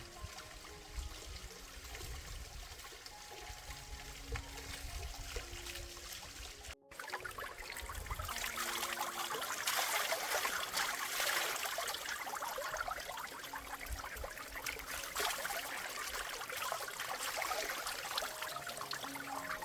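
Water trickling and splashing, louder and busier after a sudden cut about seven seconds in, over faint background music of soft held notes.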